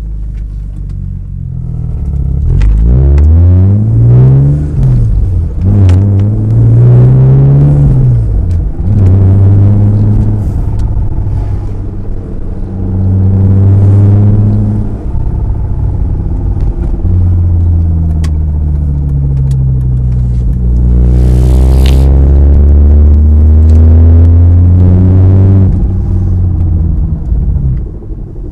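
BMW E36 exhaust through a new muffler: the engine's note climbs and drops twice as the revs rise and fall, then holds steady for long stretches before falling away near the end. A brief whoosh of noise comes a little past the middle.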